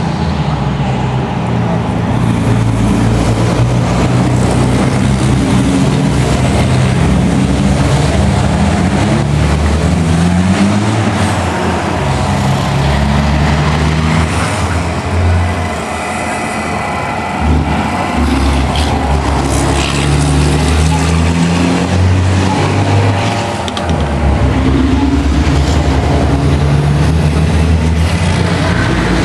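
Truck engine sound running and revving, its pitch stepping up and down again and again, with a couple of brief dips in loudness.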